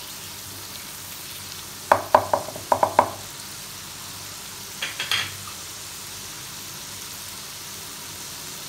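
Mustard and spice paste sizzling steadily in a non-stick frying pan. About two seconds in comes a quick run of about six sharp knocks with a short ring, the loudest sounds, and a few fainter clicks follow about five seconds in.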